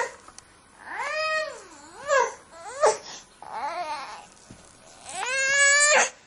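Baby crying in a string of about six wails that rise and fall in pitch, with short breaths between; the last and longest cry, near the end, is held for about a second and stops abruptly.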